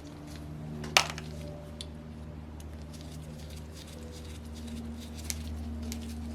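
Metal hand tools and small engine parts clinking and tapping on a workbench: one sharp clink about a second in, a smaller one near the end, and light ticks between, over a steady low hum.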